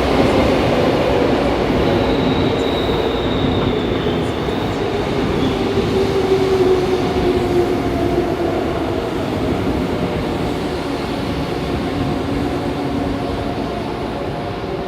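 Seoul Subway Line 2 train with GEC traction equipment arriving and braking, its motor whine sliding slowly down in pitch over the rumble of wheels on rail. The sound eases off near the end as the train slows.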